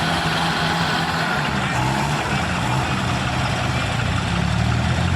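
Diesel tractor engines running hard with a steady low drone, straining against each other in a tug-of-war.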